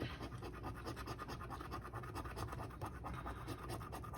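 Scratch-off lottery ticket being scratched: quick, repeated rasping strokes, several a second, as the latex coating is scraped off.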